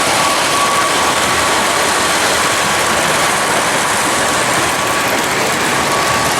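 Model trains running on a layout: a steady rolling noise with a thin, high, steady whine that fades in and out.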